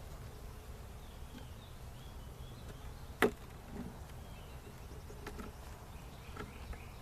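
Honey bees buzzing in flight around an opened hive, a steady low hum; the bees are robbers from other hives. A sharp knock about three seconds in and a few lighter clicks later.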